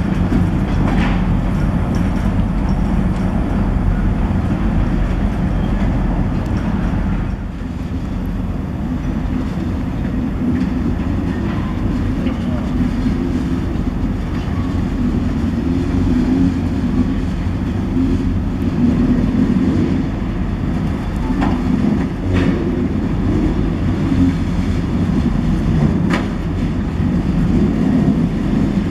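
A train running by, with a steady heavy rumble and a few sharp knocks from the wheels and cars.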